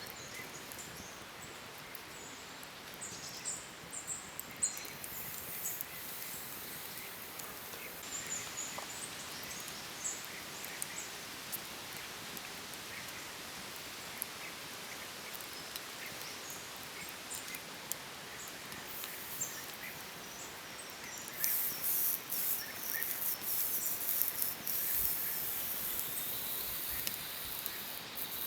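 Outdoor nature ambience: a steady background hiss with short, high bird chirps scattered through it. From about three-quarters of the way in, a run of crisp, dense crackling or rustling clicks becomes the loudest sound.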